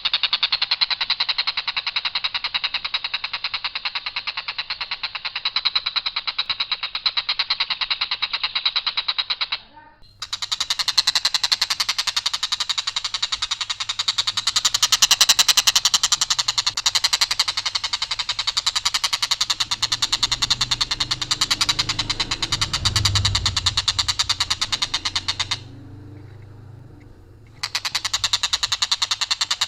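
Tengkek buto kingfisher giving its harsh, rough call: long, even rattles of rapid repeated notes on one line, without any twists. It makes three long bouts, with a short break about ten seconds in and another near the end.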